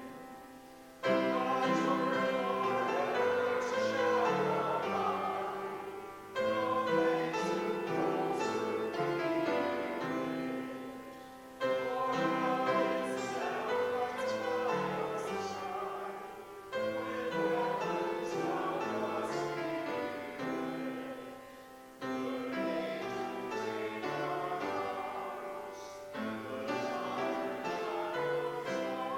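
Slow keyboard music during a church service, played in phrases of about five seconds that each open with a sudden chord and fade away.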